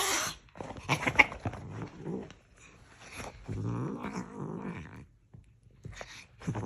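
A pet cat making a series of short, irregular vocal sounds, with a longer pitched call about three and a half seconds in.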